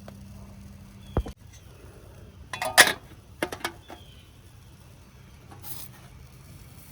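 Metal cookware being handled and set on a small camp burner stove on a metal table: a few sharp clinks and knocks, the loudest about three seconds in. A low hum cuts off about a second in.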